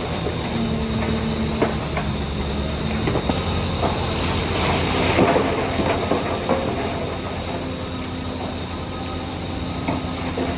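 Shantui DH17C3 crawler bulldozer working, its diesel engine running with the steel tracks clanking and squealing. The sound grows louder and harsher from about three seconds in to about six seconds in, then settles back to a steady engine note.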